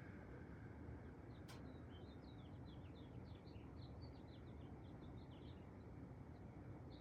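A small bird chirping in a quick series of short, high notes for a few seconds over faint, steady outdoor background noise, with a single sharp click about a second and a half in.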